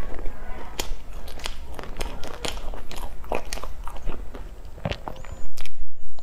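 Close-miked chewing and biting of a soft, floss-coated cream bun, with many small wet mouth clicks and snaps. A loud muffled bump comes near the end.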